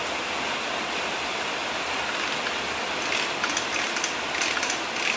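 A steady rushing hiss, with light clicks and taps from about three seconds in.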